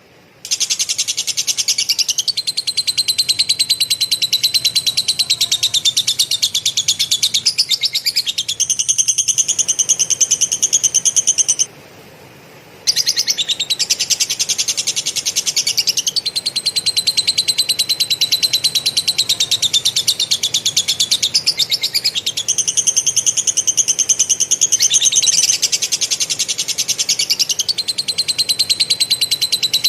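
Kapas tembak (katem) songbird singing a very fast, tightly packed rolling trill in long unbroken runs, its pitch shifting up and down every few seconds, with one short pause about twelve seconds in; the rapid chattering runs are lovebird song mimicked by the bird.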